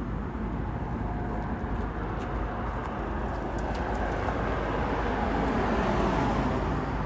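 Jet airliner arriving on final approach, its engine noise swelling to a peak about six seconds in, with a faint whine falling in pitch as it passes.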